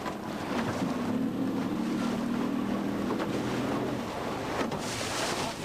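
Motorboat engine droning steadily, with wind on the microphone and water noise underneath; a short burst of wind buffeting near the end.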